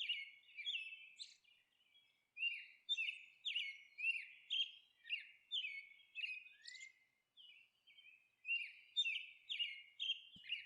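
Faint small-bird chirping: short high chirps that slide downward, roughly two a second, with a brief pause about two-thirds of the way through.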